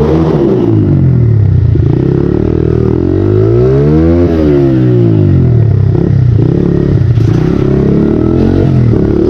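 Honda XR80 pit bike's small single-cylinder four-stroke engine revving up and dropping back several times while being ridden, with one long climb and fall in the middle. The clutch, stacked with an extra friction and steel plate, grips and pulls well.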